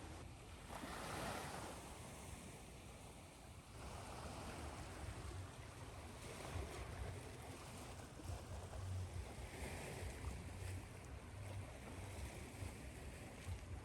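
Ocean surf: waves washing in as a steady rush of noise that swells and eases every few seconds, over a low rumble.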